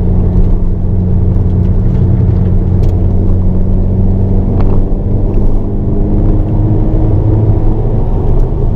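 Hyundai Avante N (Elantra N) turbocharged 2.0-litre four-cylinder engine pulling under load, heard from inside the cabin: a steady low engine drone whose pitch climbs slowly over several seconds as the car accelerates.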